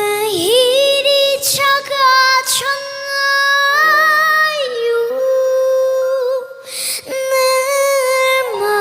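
Background music: a woman's voice singing a slow melody in long held notes.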